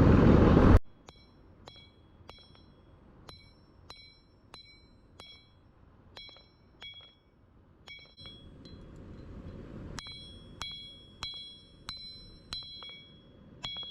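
Hand hammer striking a hot Damascus billet on an anvil, a steady run of blows about one and a half a second, each leaving the anvil ringing in a few clear high tones. About eight seconds in, a low rushing noise comes up under the blows.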